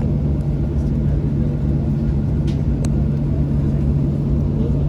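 Steady cabin drone inside a Boeing 737-700 on the ground after pushback: a continuous low rumble with a steady hum, and a couple of faint ticks about halfway through.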